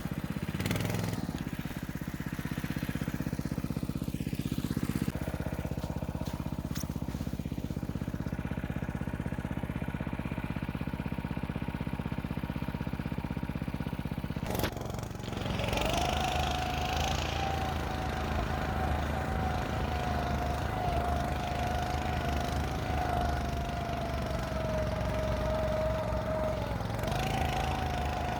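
Small engine of a motorized snow scooter running steadily under way. Halfway through there is a brief dip with a click, after which the engine carries on with a steady high whine added.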